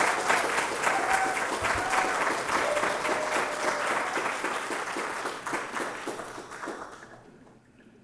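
Audience applauding, with a couple of short whistles or cheers in the first few seconds; the clapping fades out about seven seconds in.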